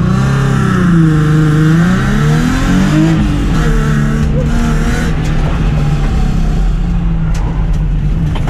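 Race car's engine revving hard under acceleration on an autocross run, the pitch climbing, dropping and climbing again in the first few seconds, then holding fairly steady at high revs.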